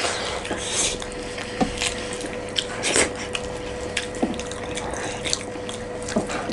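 Close-miked eating sounds: wet chewing and lip smacks, with irregular small clicks, as dal-bhat and chicken are eaten.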